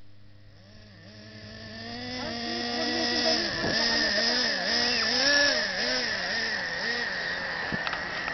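Traxxas radio-controlled monster truck's motor revving up and down over and over, its pitch rising and falling, growing louder over the first three seconds.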